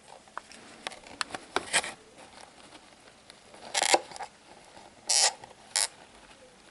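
Snake shipping packaging being handled and opened: a run of small clicks and scrapes, with short bursts of rustling about two, four, five and six seconds in.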